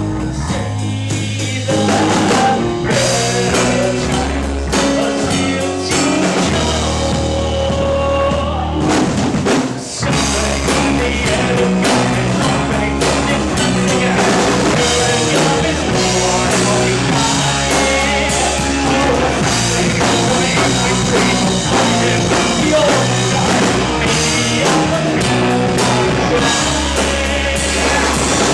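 Live rock band playing a song: distorted guitars, bass and drum kit, with some singing, briefly dropping out about ten seconds in before the full band comes back in.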